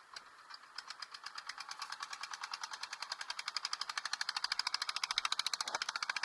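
A small engine's rapid, even knocking, roughly ten beats a second, growing steadily louder as it comes closer.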